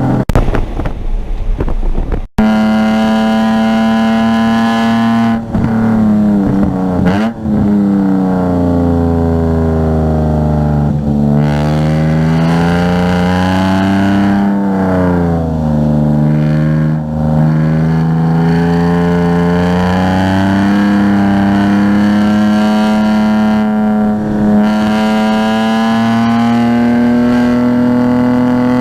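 A car engine driven hard on a race track, its pitch repeatedly climbing under acceleration and dropping under braking and gear changes. The first couple of seconds are rough noise with no clear engine note, cut off abruptly.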